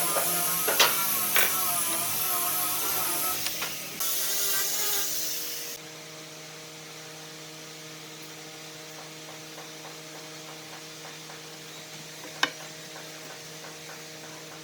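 A power tool running loudly with a wavering whine and a couple of sharp knocks; about six seconds in it drops to a quieter, steady electric hum, with one sharp click near the end.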